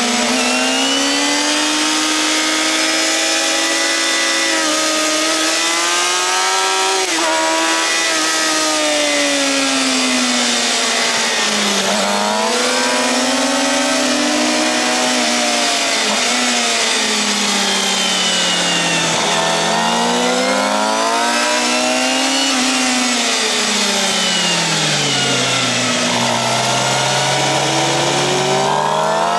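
Suzuki GSX-R750 inline-four through a Yoshimura R-11 slip-on exhaust, ridden hard on a race track: the engine note climbs under acceleration and drops back on downshifts for corners, several times, falling lowest near the end before picking up again. A steady rush of wind runs underneath.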